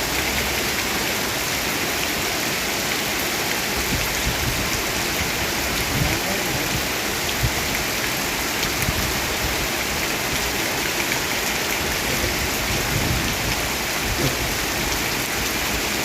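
Heavy rain falling in a steady, dense hiss, with a few short louder taps now and then.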